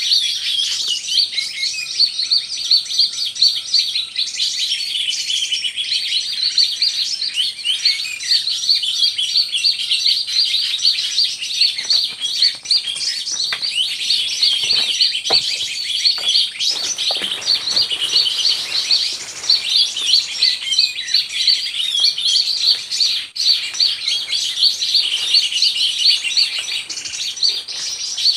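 Leafbird (cucak ijo) song: a long, unbroken run of rapid, high chirping and twittering notes, with a few soft knocks near the middle.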